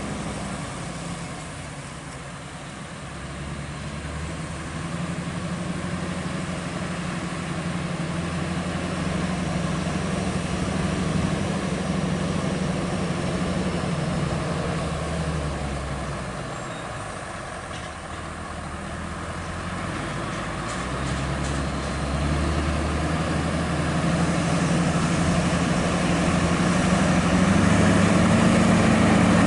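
Scania R580's V8 diesel engine running under load, its low drone swelling and easing off twice, then climbing in pitch and loudness near the end.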